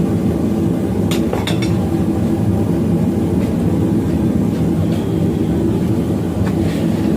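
A loud, steady low roar with a few light, sharp clinks about a second in.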